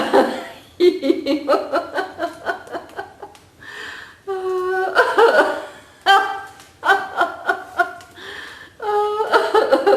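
People laughing deliberately in a laughter-yoga exercise: repeated bursts of pulsed 'ha-ha-ha' laughter with short pauses between them.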